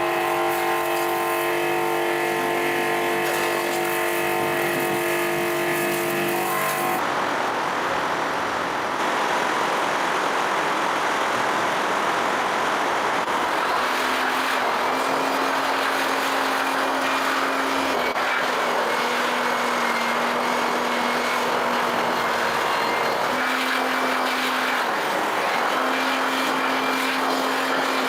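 Machinery running: a steady hum of even pitch, which gives way abruptly about seven seconds in to a steady rushing noise with a low tone that repeatedly comes and goes.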